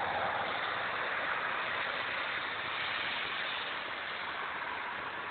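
Swollen creek in flood, its white water rushing high and fast: a steady, even rush of water.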